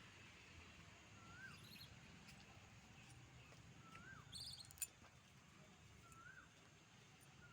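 Faint birdsong: one bird repeats a short note that rises then drops, about every two and a half seconds. Another bird gives brief high chirps twice, and there is a single sharp click near the middle.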